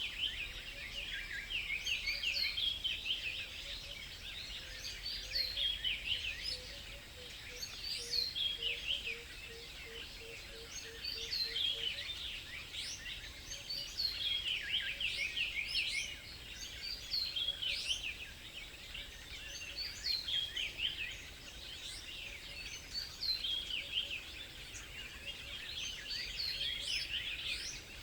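Several small songbirds chirping and singing, their quick overlapping phrases coming in bursts every couple of seconds. For a few seconds in the first half, a faint low note repeats about three times a second beneath them.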